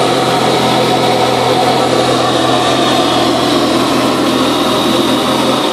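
Turbocharged Vauxhall Z18XE 1.8-litre four-cylinder engine, fitted with a Garrett GT2860RS turbo, running steadily at idle on its first start after a year-long rebuild.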